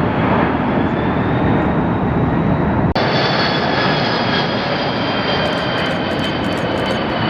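Jet aircraft flying by: a loud, steady engine roar with a high whine. About three seconds in the sound breaks off for an instant and resumes, after which the whine falls slowly in pitch.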